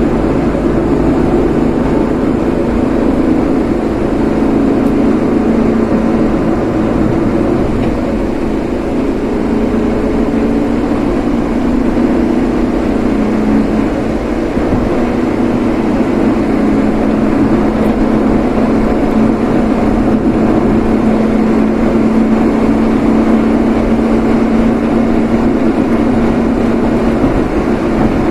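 A vehicle being driven: steady engine and road noise, with an engine tone that slowly shifts in pitch.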